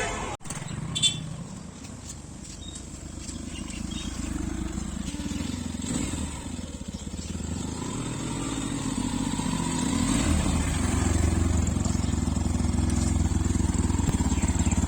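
Yamaha FZ-X's single-cylinder engine running steadily on the move, getting louder about ten seconds in.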